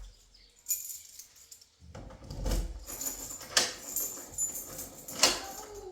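Light metallic jingling and clinking, as of keys or small hardware being handled, with four sharp knocks spread through it.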